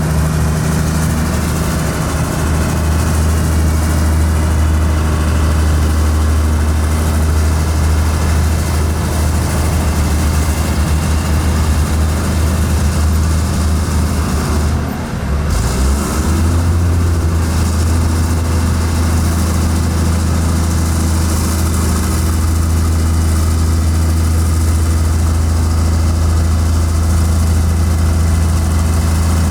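Heavy construction machine's diesel engine running steadily with a low hum, briefly dropping about halfway and then picking up again.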